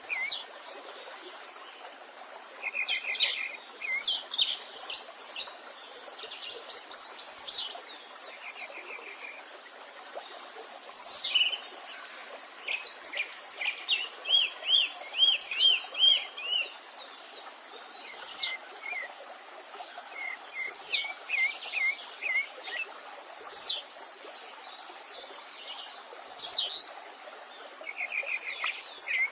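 Several songbirds singing and calling in turn: quick falling whistles, short fast trills and a run of repeated rising notes, over a faint steady stream.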